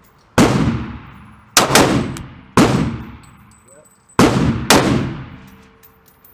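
Gunshots at a shooting range: six shots at an uneven pace, two pairs of them in quick succession, each with a long echoing decay.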